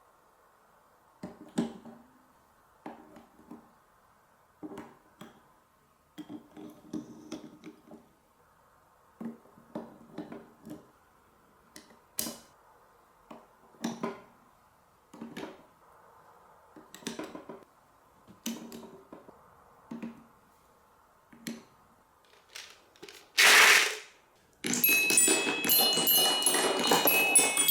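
Marbles rolling and clattering down a colourful block marble run: short rattling runs of clicks and knocks every second or two. Near the end comes one loud whooshing burst, and then music starts.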